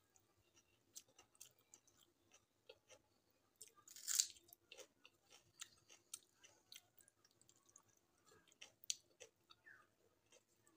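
Faint close-up chewing of fried onion pakora and rice, a scatter of small crisp clicks with one louder crunch about four seconds in. Light clicks and squelches of fingers mixing rice on a metal plate.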